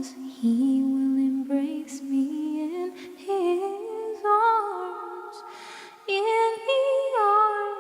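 Unaccompanied voices in harmony holding long, slow notes of a hymn, with fresh phrases entering about three and six seconds in.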